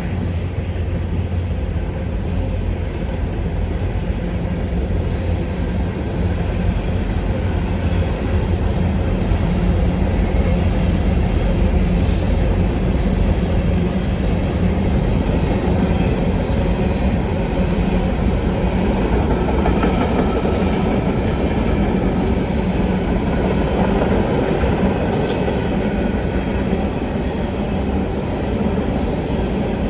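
A train's railcars rolling steadily past on the track, with a dense, continuous low rumble.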